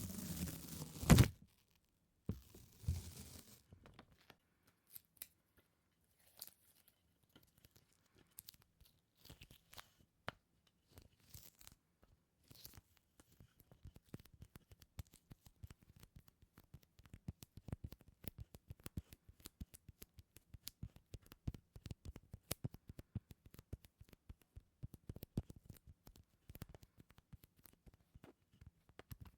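Close-miked sticky peeling and crackling: a tacky surface pulled apart again and again, in fine clicks that grow denser in the second half. There is a louder rustle ending in a sharp snap in the first second, and a short burst a couple of seconds in.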